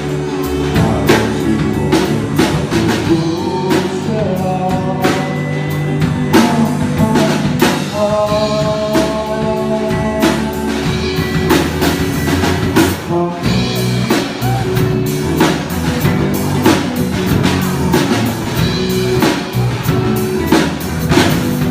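Rock band playing with sung vocals over a drum kit and guitars; the singer holds long notes about a quarter of the way in.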